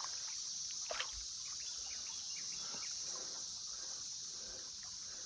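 Steady, high-pitched insect chorus, with a short sharp sound about a second in.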